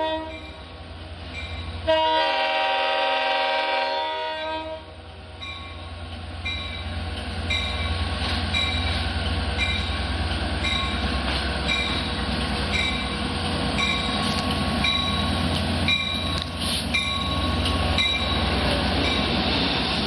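Long Island Rail Road diesel train sounding its horn: the end of one blast, then a second blast of about two and a half seconds. The train then pulls in, with a steady low diesel rumble, wheel-on-rail noise and a bell ringing about once a second.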